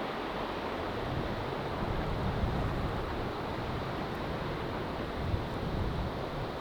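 Strong wind buffeting the microphone in a low, uneven rumble, over the rush of choppy lake water.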